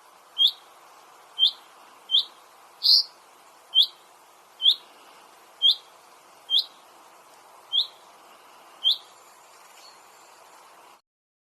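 A songbird giving a single short, sharp chirp over and over, about once a second, ten times, over a faint steady hiss.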